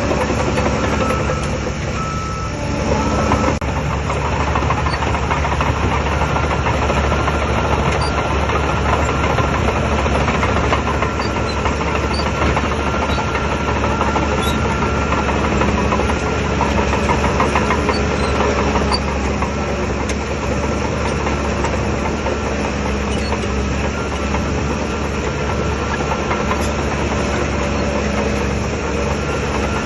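Bulldozer's diesel engine running steadily, with a brief dip in level about two seconds in.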